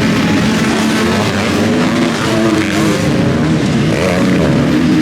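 Several motocross bike engines revving at once, their pitches overlapping and rising and falling as the riders work the throttle.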